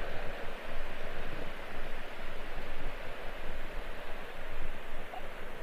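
Steady rushing of wind and lapping lake water, with no distinct events.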